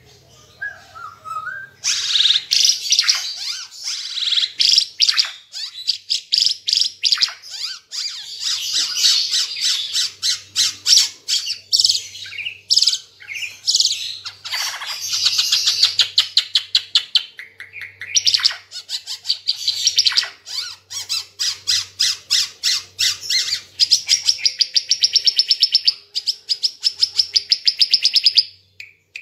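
Ara Timor songbird singing a loud, varied song of rapid chirps and trills. It starts about two seconds in and ends with a long, fast, even trill near the end.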